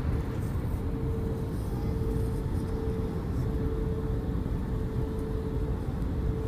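Airbus A321 cabin noise on approach: a steady low drone of engines and airflow, with a steady mid-pitched hum tone running through it.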